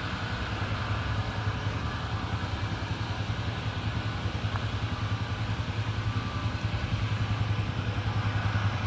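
A vehicle's engine running steadily with a low, evenly pulsing hum.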